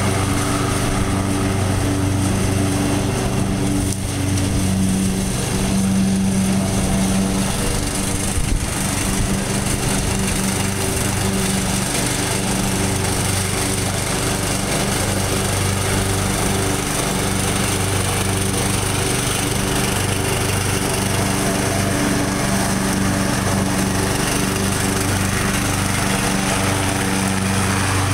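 Small tractor engine running steadily at a constant speed.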